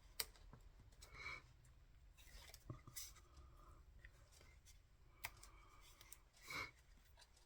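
Near silence with a few faint rustles and light taps of paper strips and card being handled on a work surface.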